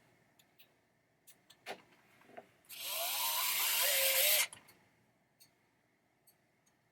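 Power screwdriver with a magnetic bit running a screw in for about two seconds near the middle, its motor whine rising as it spins, after a few light clicks of parts being handled.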